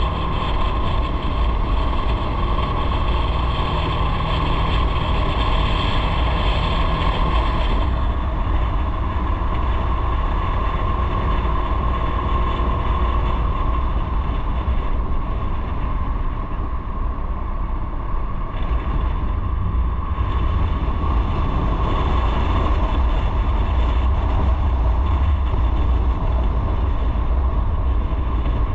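Onboard sound of a motorcycle under way: steady wind rush on the microphone over the drone of the engine.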